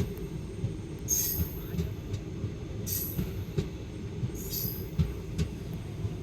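Passenger express train rolling on the rails: a steady low rumble with irregular knocks, and short high hissing squeals from the wheels about every one and a half seconds.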